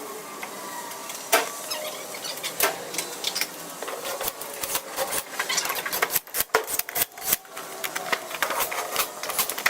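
A fast, irregular run of clicks, knocks and rattles, with short gaps.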